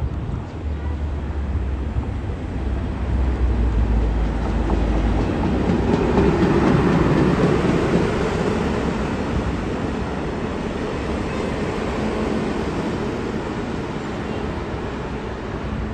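Self-propelled rail supervisor van passing at speed on the track: a low rumble as it approaches, then the rush of its wheels running on the rails, loudest about halfway through as it goes by, fading as it moves away.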